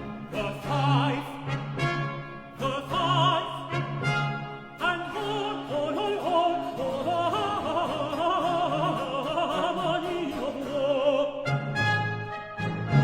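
A solo countertenor sings a long, ornamented line with vibrato over a Baroque orchestra. About 11 seconds in, the voice stops and the orchestra, led by brass, takes over.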